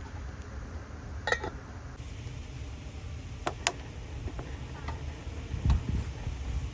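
Cooking utensils and cookware clinking: a few sharp knocks, one about a second in and a close pair about three and a half seconds in, over a low steady rumble.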